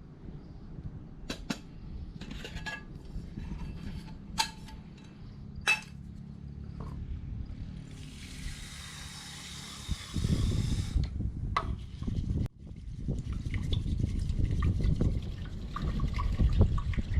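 Clinks of an aluminium cooking pot being handled, then water poured into it for about three seconds. After that a low rumbling noise takes over and grows louder toward the end.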